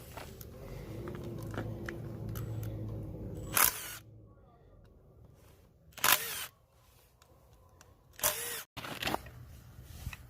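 Rustling handling noise, then three loud, short clacks about two and a half seconds apart, each followed by a near-silent lull.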